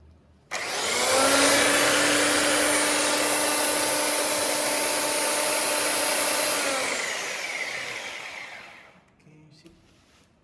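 Electric belt sander switched on, coming up to speed with a rising whine, running steadily for about six seconds, then switched off and winding down with a falling whine.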